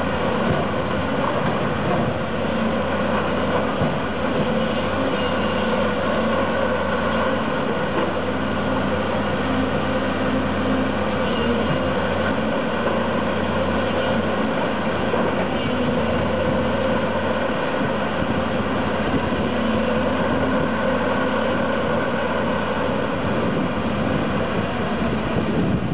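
Heavy diesel construction machinery running steadily: an excavator or truck engine holding a constant speed, with a steady hum and several fixed tones throughout.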